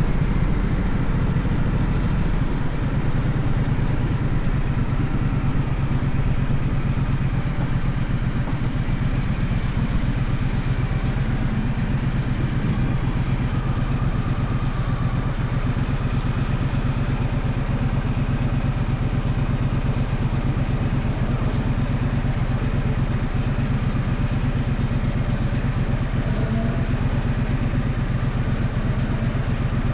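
Gaokin GK1200 motorcycle engine running at steady revs, its exhaust pulsing evenly with no revving up or down.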